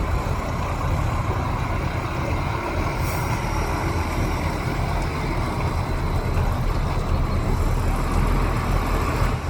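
Heavy diesel earthmoving machinery engine running steadily under load, a deep continuous rumble.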